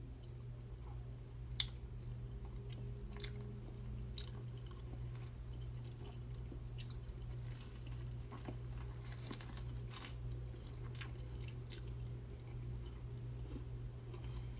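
Close-miked chewing and biting of seafood boil food, with scattered crunches and clicks and one sharp click about a second and a half in.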